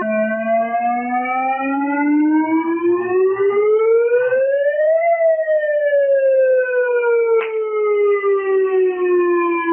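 A wailing siren going through one slow cycle: its pitch climbs steadily for about five seconds, then falls away. There is a sharp knock about seven seconds in.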